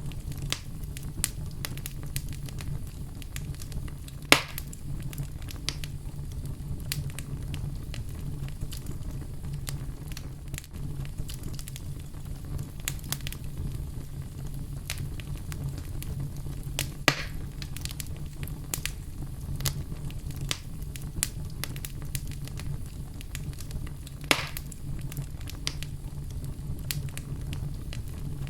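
Fire in a fireplace crackling steadily over a low rumble, with frequent small crackles and three louder pops: about four seconds in, around the middle, and near the end.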